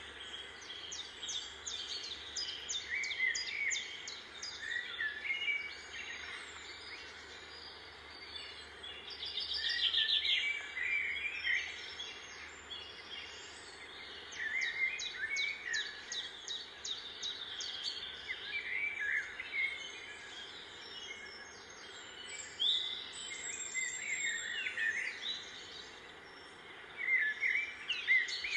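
Small birds chirping and trilling, many short high calls overlapping and coming in bursts, over a steady background hiss.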